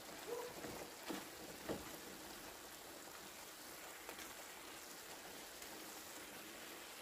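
Chicken pieces and onions sizzling faintly in a frying pan as they are stirred with a spatula, with a few soft knocks of the spatula against the pan in the first two seconds.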